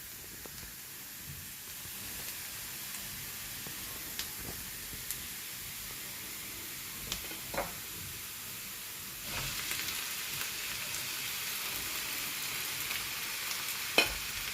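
Onion and garlic frying in oil in a pan: a steady sizzle that grows louder about nine seconds in, with a few light clicks of a utensil against the pan.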